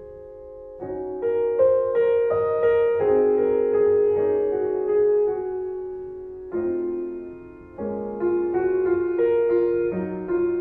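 Background piano music: slow chords and notes struck and left to ring.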